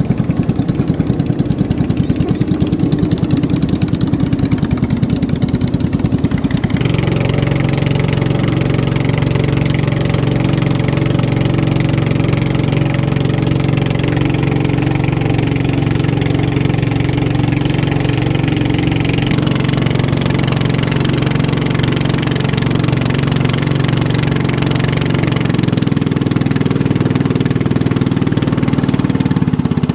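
Racing boat engine running continuously with a fast, pulsing note; about seven seconds in it becomes a steadier, fuller drone, and it shifts pitch again near the end.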